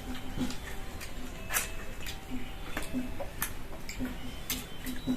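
Eating by hand: irregular small clicks and wet smacks of fingers working food on a plate, and chewing.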